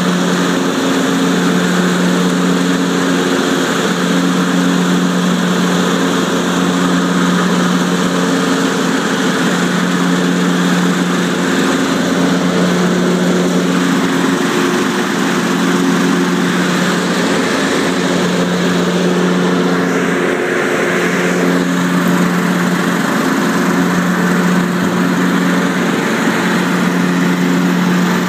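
Husqvarna YTH21K46 lawn tractor's 21 hp Kohler engine running steadily, a constant loud drone with no change in speed.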